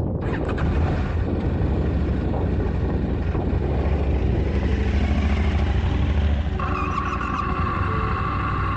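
Motorcycle engine running under way on a dirt road, its low drone mixed with rough road and wind noise. About two-thirds of the way through the sound changes to a steadier engine note with a thin high whine over it.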